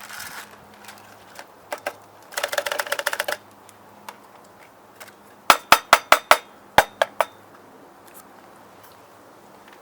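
Cooking utensils being handled: a quick run of rapid clicks, then about eight sharp knocks in quick succession, some of them ringing briefly like metal.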